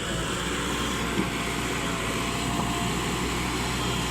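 A 74 hp engine running steadily.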